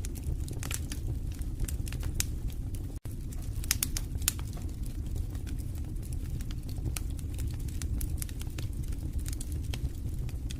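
Wood fire in a fireplace crackling, with irregular sharp pops over a steady low rumble of the flames. The sound drops out for a split second about three seconds in.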